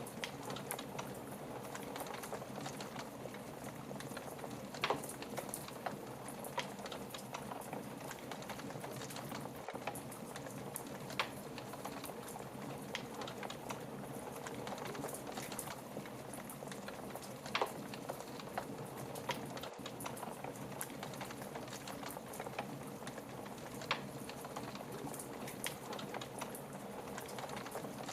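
Fire crackling in a fireplace: a steady low hiss and rustle dotted with many small pops, with a sharper snap every several seconds.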